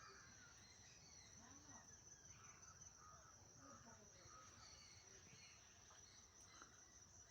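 Faint calls of wild crows cawing now and then, over a steady high-pitched insect drone.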